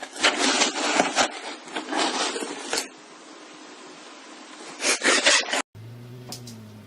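Irregular rapid scratching and scraping, in dense strokes through the first three seconds and again about five seconds in, then cut off abruptly; a low steady hum follows near the end.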